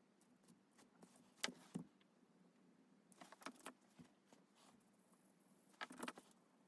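Faint taps and clicks of drawing tools on paper and the desk, in three short clusters about one and a half, three and a half and six seconds in.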